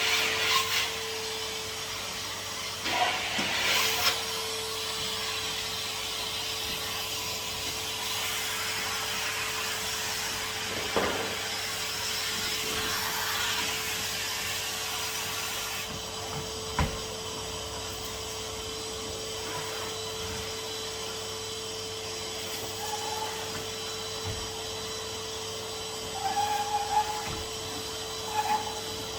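Henry HVR200 620 W vacuum cleaner running steadily with a constant motor whine, its nozzle rubbing over surfaces. A few short knocks come near the start, about 11 seconds in, and again a few seconds later.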